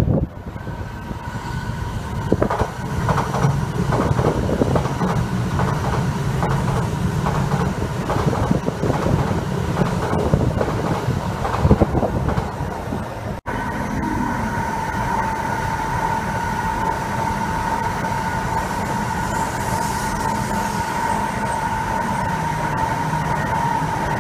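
Shinkansen trains at speed. An E7-series train runs past with a steady rumble and a rapid run of sharp wheel clicks. About halfway through there is an abrupt cut, after which a coupled E5- and E6-series train approaches with a steady, even, high-pitched whine over its rumble.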